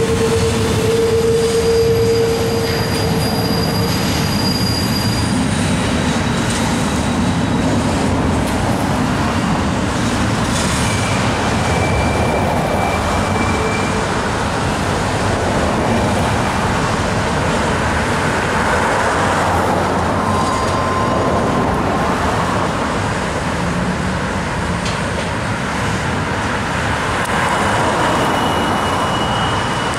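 Intermodal freight train cars rolling over a steel girder railroad bridge: a steady rumble of wheels on rail, with thin wheel squeals at several different pitches coming and going.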